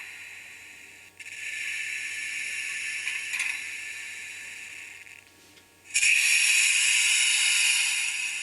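Sound decoder of a Minitrix N-scale BR 101 electric locomotive playing its operating sound through the model's small speaker: a hissing, fan-like running noise. It fades, starts again about a second in, dies away around five seconds, then comes back louder about six seconds in and cuts off near the end.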